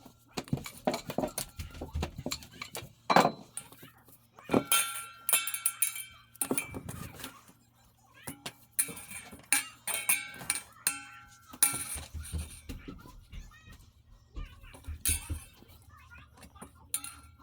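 Kitchen clatter of roti dough being rolled out: repeated knocks and clinks of a rolling pin and utensils on the board, with several short high-pitched cries in between.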